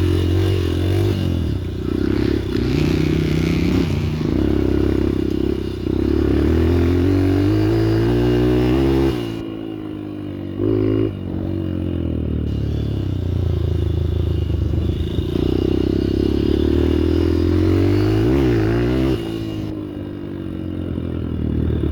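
Dirt bike engine being ridden hard, revving up with its pitch climbing again and again and easing off as the throttle closes, about nine seconds in and again near the end.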